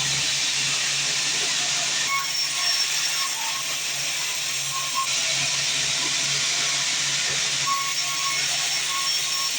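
Sawmill band saw running through timber: a steady hissing cut over a low motor hum.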